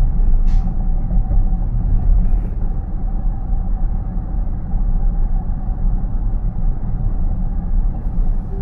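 Road noise inside a moving car's cabin: a steady low rumble of the tyres and road, with a faint steady hum above it.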